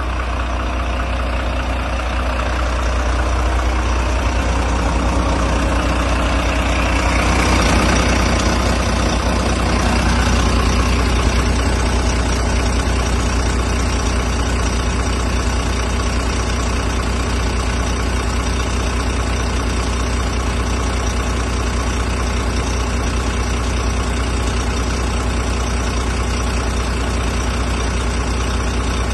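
Volvo FM 300 truck's diesel engine running steadily at idle, swelling briefly about seven to ten seconds in, then settling back.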